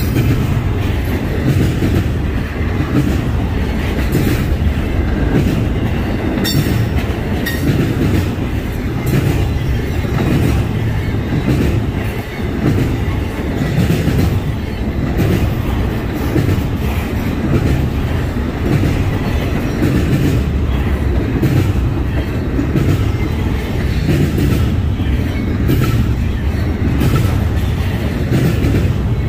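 Freight train rolling past at track side: a steady heavy rumble of cars and wheels, with repeated sharp clacks as the wheels cross rail joints.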